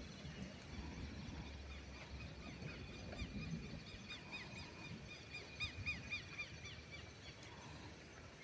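A bird calling a rapid run of short, arched chirps, about four a second, starting a couple of seconds in and stopping about a second before the end, over a faint low rumble of wind.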